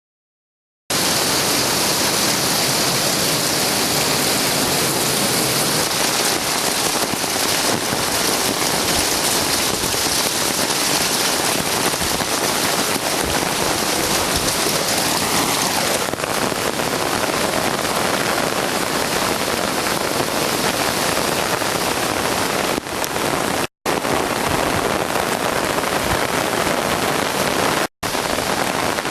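Heavy thunderstorm downpour pelting down as a loud, steady hiss that begins abruptly about a second in, with two brief cut-outs near the end.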